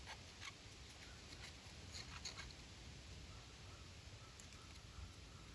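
Faint, short scratchy rubbing sounds, a few strokes: the edge of a small-engine carburetor float bowl being cleaned of a powdery buildup, which is taken for ethanol damage.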